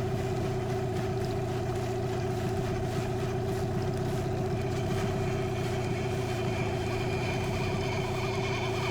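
Boat outboard motor running steadily at low trolling speed, an even hum that does not change.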